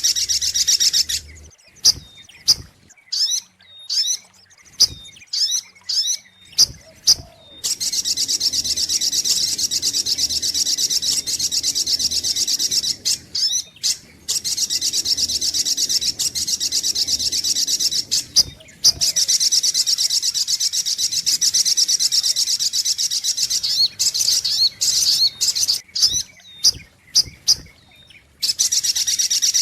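Sogok ontong sunbird song from a bird-lure recording: long stretches of rapid, high-pitched chattering chirps, broken by short gaps filled with single sharp chirps.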